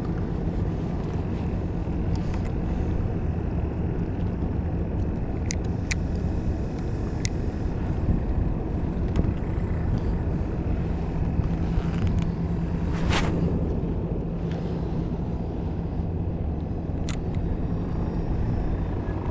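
Electric trolling motor running with a steady low hum, with a few light clicks and a brief rush of noise about two-thirds of the way through.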